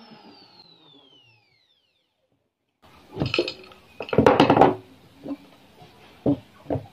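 A power tool winding down, its whine falling in pitch and fading out. After a short silence comes a clatter of knocks and clinks twice, then a few single knocks, as of wood and tools being handled.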